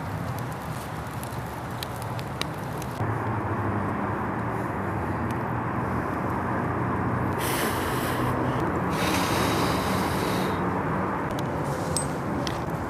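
Wood campfire crackling with scattered sharp pops over a steady low rumble. The rumble gets louder about three seconds in, and a louder hiss comes and goes twice near the middle.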